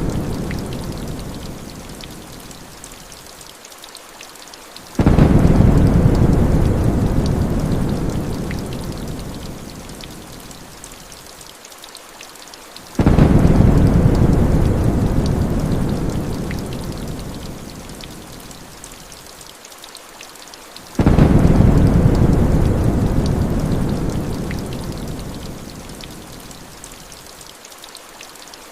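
Heavy rain falling steadily, with deep thunder rumbles that start suddenly about every eight seconds and fade away slowly, three times.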